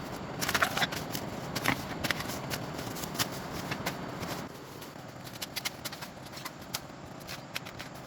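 Rustling and handling noise with a string of light clicks and taps, busy for the first half and sparser after.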